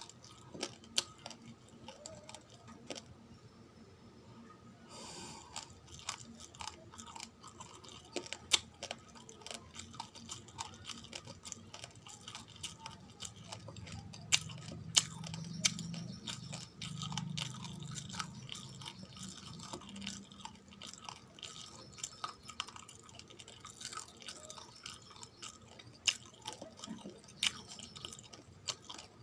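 Raw, uncooked rice grains being chewed close to the microphone: repeated sharp crunches and cracks as the hard grains break between the teeth.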